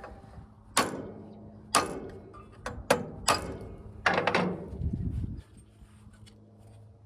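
Hammer striking a brass drift against the bosses of an engine's starter clutch to knock it loose: about five sharp metallic blows, each with a brief ring.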